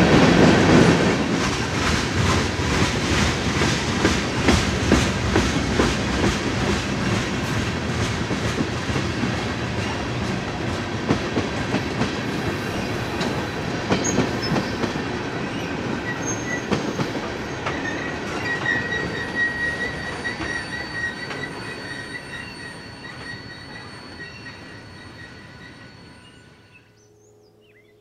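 Freight train of covered hopper and tank cars rolling past close by, its wheels clicking steadily over rail joints, with a thin, high wheel squeal joining in about halfway through. The sound fades over the last few seconds and cuts off just before the end.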